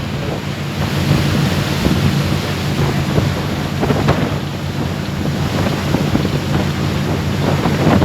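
Wind blowing hard across the microphone over the steady low drone of a boat's engine.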